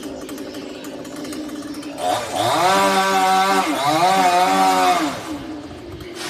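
Chainsaw idling, then revved to high speed about two seconds in and held there for about three seconds with a brief dip, before dropping back to idle. A short knock near the end.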